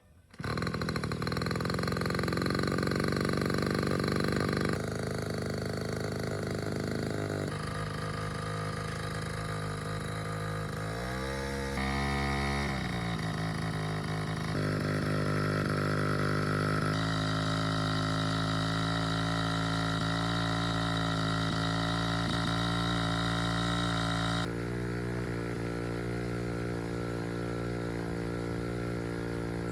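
Small two-stroke engine of a portable water pump running steadily, coming in suddenly about half a second in. Its pitch rises and falls once near the middle as it is revved briefly, and its tone and level shift abruptly several times.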